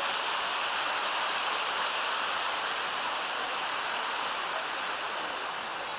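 Mountain stream cascading over rocks and small waterfalls, a steady rushing of water.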